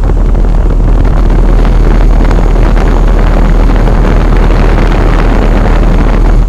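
A loud rumbling rush of air buffeting the microphone, starting abruptly and cutting off after about seven seconds.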